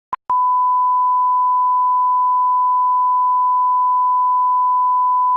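A steady, pure electronic beep tone, held unbroken after a short blip at the start, like a test tone or censor bleep.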